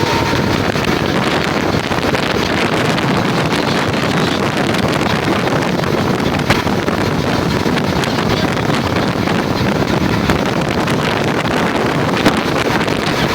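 Wind buffeting the microphone over the running of a boat, a continuous even rushing noise.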